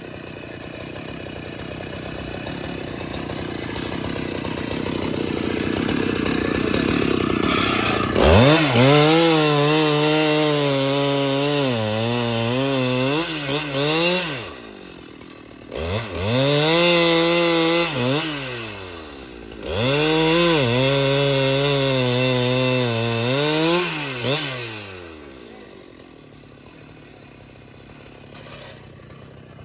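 A rushing noise builds for the first several seconds. Then a Husqvarna 395XP two-stroke chainsaw is run at full throttle three times, several seconds each, its pitch sagging under load as it cuts into wood and climbing again as it frees, before dropping back to a low level.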